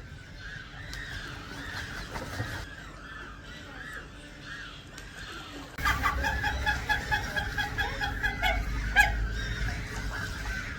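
A Cape gannet colony calling, many short harsh calls overlapping. About six seconds in it gets suddenly louder, with a close bird giving a rapid run of repeated calls over a low rumble.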